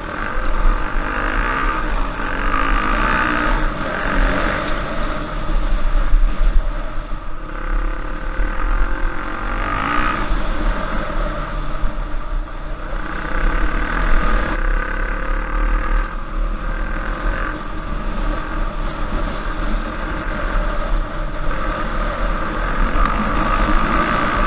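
Trail bike engine running continuously on a dirt trail ride, the revs rising and falling with the throttle, over a steady low rumble.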